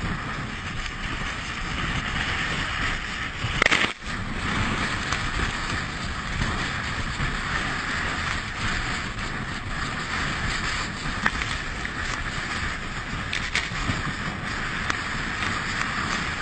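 Rough sea and wind buffeting the microphone, a steady rushing noise, with a louder surge just before a brief drop-out about four seconds in.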